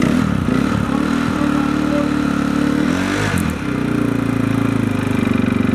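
Motorcycle engines running at the start line, mostly a steady idle, with short blips of the throttle right at the start and again about three seconds in.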